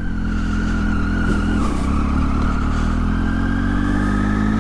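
Triumph Tiger motorcycle engine running steadily.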